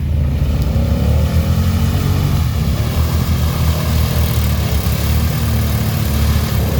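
Off-road vehicle engine running with a steady low rumble, with a faint rising rev about a second in.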